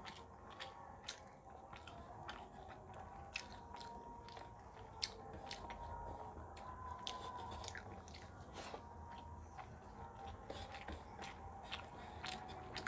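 Close-miked chewing and crunching of mouthfuls of rice mixed with crisp puffed rice. Many small, irregular crackling clicks run throughout.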